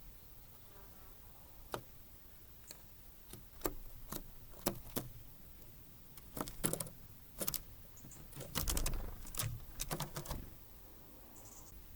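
Small birds (tits) pecking and tapping at a bird feeder: irregular sharp taps and clicks, coming thicker and faster a little past the middle.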